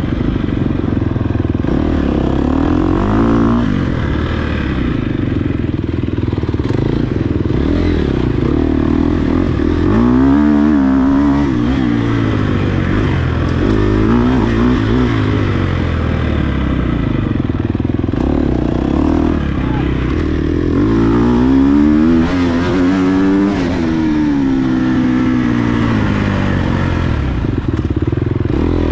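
Dirt bike engine revving up and down over and over as the rider works the throttle through the gears, its pitch repeatedly climbing then dropping.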